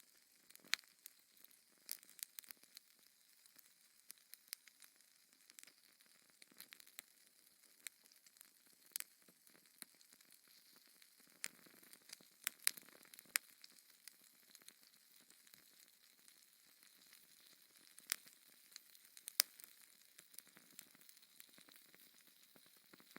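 Wood fire crackling in a fireplace: irregular sharp pops and snaps over a faint soft hiss.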